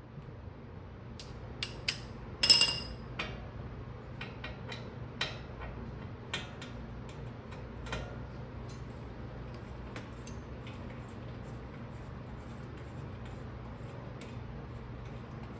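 Metal hand tools clinking and clicking against a car's rear suspension and wheel hub. There is one loud ringing clink about two and a half seconds in, then lighter, irregular clicks over a steady low hum.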